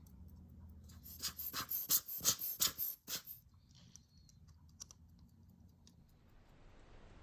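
A quick run of about a dozen sharp clicks, roughly five a second, lasting a little over two seconds, with fainter scattered ticks around them.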